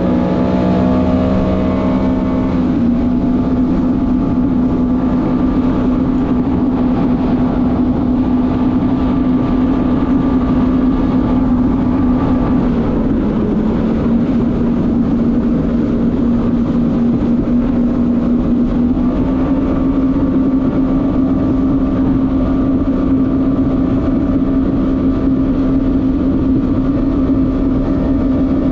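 Jet ski engine running steadily at speed. The pitch dips briefly about 13 seconds in and rises slightly a few seconds later.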